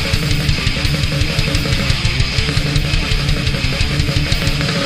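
Instrumental passage of thrash/speed metal: fast, distorted electric guitar riffing over rapid drums, with no vocals.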